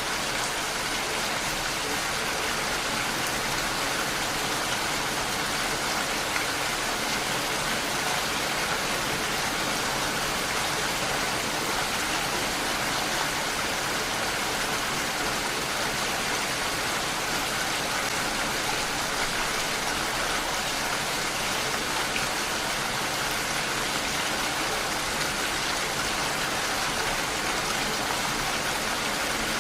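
Steady rainfall, an even hiss of rain on surfaces that holds constant without a break.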